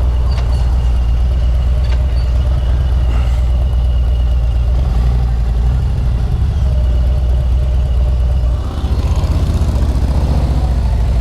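Harley-Davidson Road Glide's V-twin engine running steadily and loud. About three-quarters of the way through it dips briefly, then runs on with a more pulsing beat.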